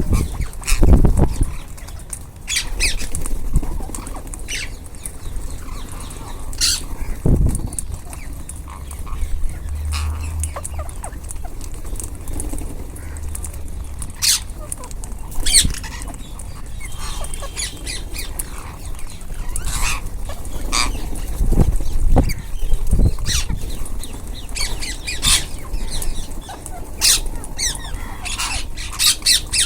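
A group of ringneck parrots squawking on and off in short, shrill calls, with a few dull low thumps among them.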